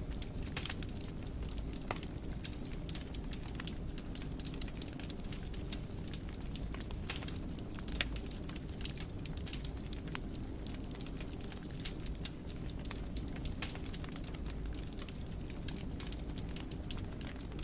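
Wood fire burning in a fireplace: a steady low rumble of flames with frequent sharp, irregular crackles and pops, several a second.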